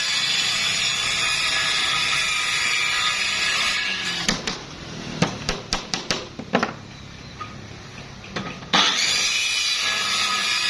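A power tool runs steadily, then stops for a few seconds while about eight sharp knocks sound. It starts again near the end.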